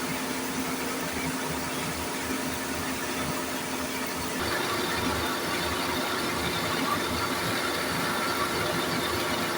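Satake SB10D rice milling machine and its Yulin S2105A twin-cylinder diesel engine running steadily. About halfway through, the sound grows a little louder and its steady hum changes pitch.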